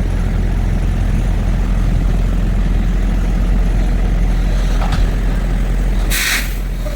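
Semi truck running, a steady low engine and road drone. A light click comes about five seconds in, followed by a short, sharp hiss a second later.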